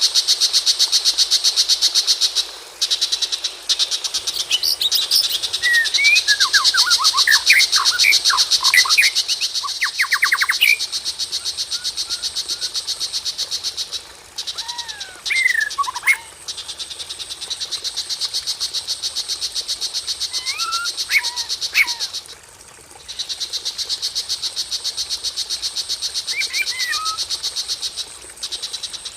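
Bird-lure recording of songbirds, the white-rumped shama and tiger shrike track: a fast-pulsing, high-pitched trill repeats almost throughout, with short whistled and sliding song phrases breaking in several times.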